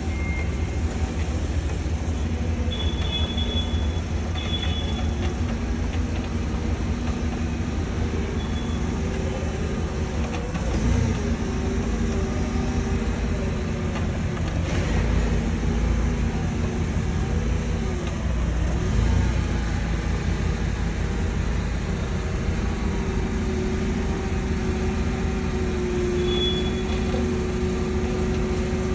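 A vehicle engine running steadily, its pitch wavering a little, with a few short high beeps a few seconds in and near the end.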